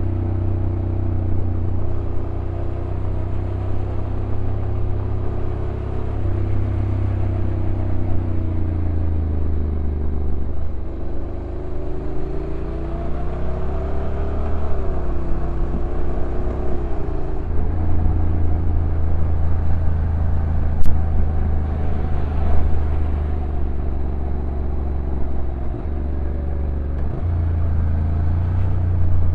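Honda NC750X's stock parallel-twin engine running on a downhill ride, its pitch rising and falling with throttle and stepping as the DCT gearbox changes gear. A single sharp click about 21 seconds in.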